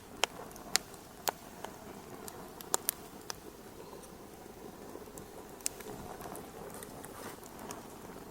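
Wood fire crackling in a fireplace: sharp, irregular pops over a low, steady hiss, with a cluster of pops in the first three seconds and another a little past halfway.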